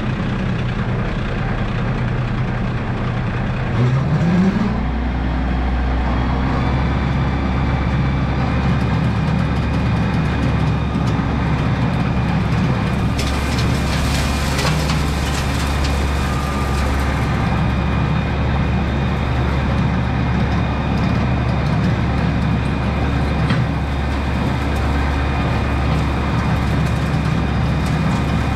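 Massey Ferguson GC1720 compact tractor's small diesel engine revving up about four seconds in, then running steadily at working speed while clearing brush. A stretch of crackling comes through near the middle.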